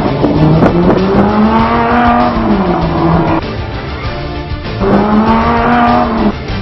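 A car engine revving twice: each time the pitch climbs, holds and drops back before cutting off abruptly.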